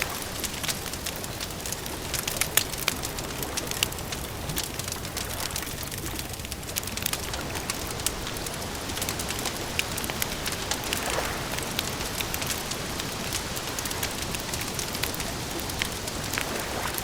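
Campfire crackling: a steady hiss with frequent sharp pops and snaps, a few louder ones about two to three seconds in.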